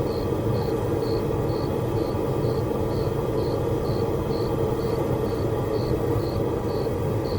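Steady low drone of a running forge, with a cricket chirping evenly about twice a second over it.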